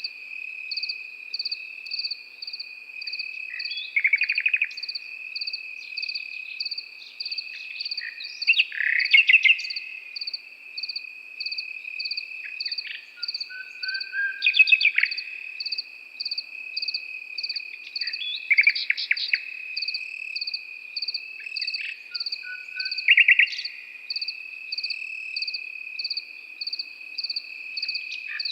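Nightingale singing short phrases of rapid repeated notes, about one every four to five seconds, over crickets: a steady high trill and a second insect chirping in even pulses about twice a second.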